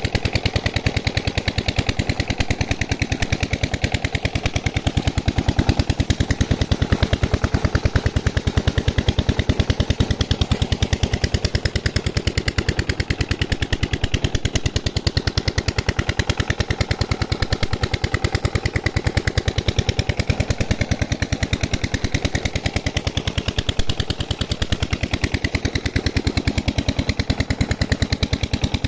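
Old diesel engine driving a tubewell water pump, running steadily with a fast, even train of exhaust beats.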